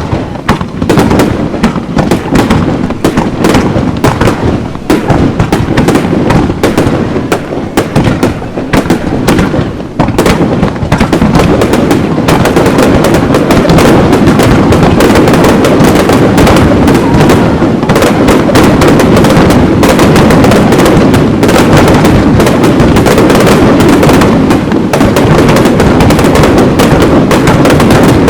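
Aerial fireworks bursting: separate loud bangs come in quick succession, then from about ten seconds in they merge into a dense, almost unbroken barrage.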